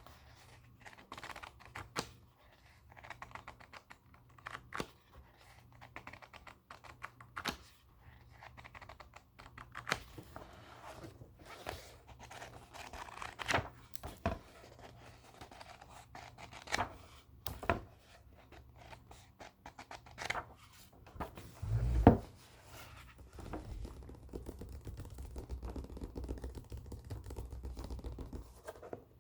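Books being handled close up: paper pages rustling and flicking, with light taps and scrapes. A single low thump about three-quarters of the way through is the loudest sound, followed by a steadier rubbing rustle.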